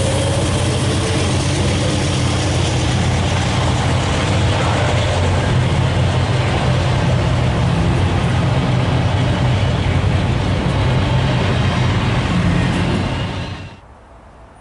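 Freight train rolling past: a loud, steady rumble of the train on the rails with a low hum underneath, cutting off suddenly near the end.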